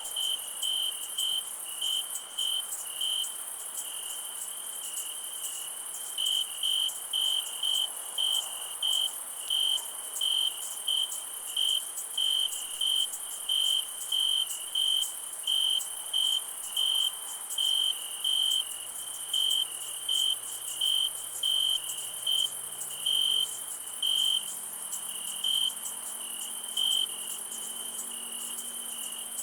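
Crickets chirping at about two chirps a second over a steady high-pitched insect trill, the chirping pausing briefly about four seconds in.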